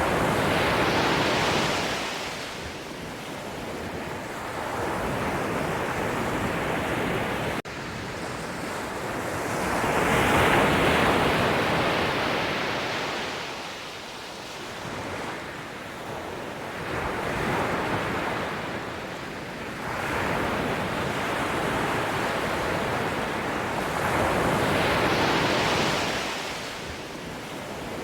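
Sea waves breaking and washing on a shore, swelling and ebbing every few seconds, with some wind on the microphone. There is a brief break in the sound a little under eight seconds in.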